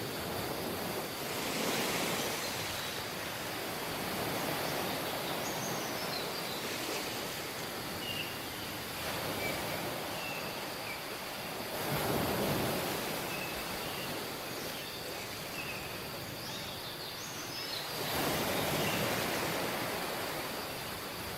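Surf on a tropical beach: waves washing in and out, swelling louder three times, with a few faint short high chirps in between.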